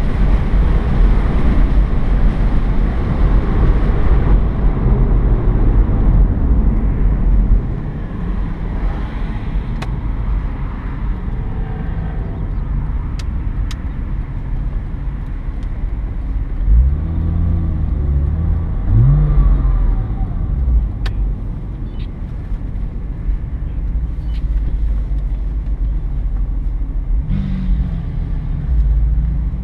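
Porsche Boxster S flat-six engine with road and wind noise, heard from inside the car: a dense rush at speed that drops after several seconds as the car slows, then the engine revs climbing in pitch about halfway through and rising again near the end as the car accelerates.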